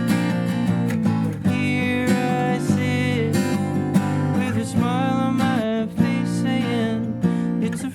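Live song on a strummed acoustic guitar, chords ringing steadily, with a gliding melody line on top.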